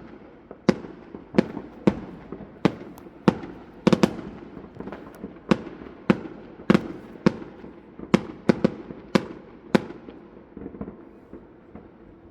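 Fireworks banging in irregular quick succession, roughly one or two sharp cracks a second, each with an echoing tail, thinning to a few faint pops in the last couple of seconds.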